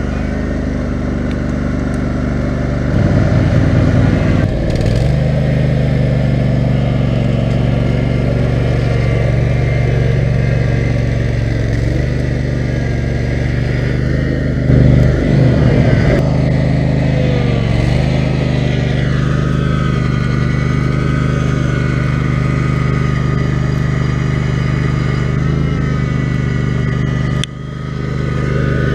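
Kohler 18 HP Command engine of an off-road lawn tractor running steadily under way, picking up speed about three seconds in and wavering in pitch midway. Its loudness drops suddenly for a moment near the end.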